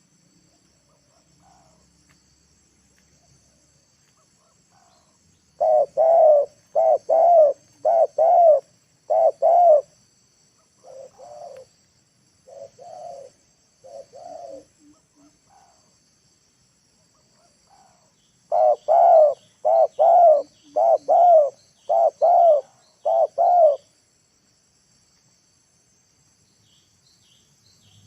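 Spotted dove (tekukur) cooing in repeated low notes: a loud run of coos about six seconds in and another about eighteen seconds in, with fainter coos between. It is a decoy dove calling to lure wild doves down. A steady high insect drone runs underneath.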